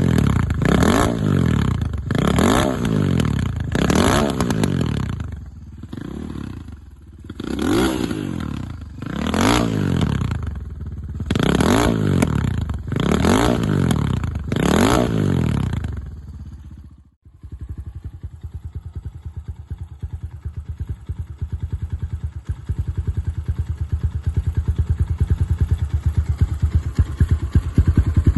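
Regulmoto ZR 250 enduro bike's single-cylinder four-stroke engine being revved in a string of short throttle blips, about one a second. Near the middle the sound cuts off abruptly, and the engine is then heard idling steadily, growing a little louder toward the end.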